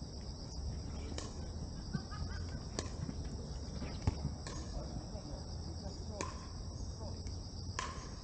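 Steady high-pitched chirring of an insect chorus, with several sharp knocks scattered through it and faint distant voices.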